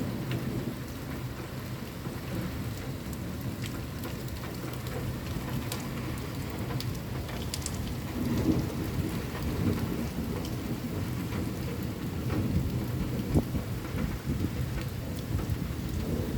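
Rain beating on window glass and the windowsill, many sharp drop taps scattered over a low rumble of thunder that swells about eight seconds in.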